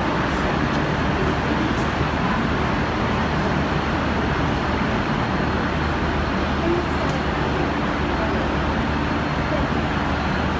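Steady low rumble and hum of a diesel-hauled passenger train and its carriages, unchanging throughout, with faint voices underneath.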